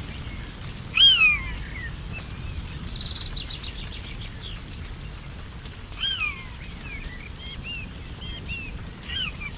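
Forest birds calling over a low steady rumble. Loud arching whistled calls come about a second in, around six seconds and near the end, with a quick rapid trill a few seconds in and softer chirps between.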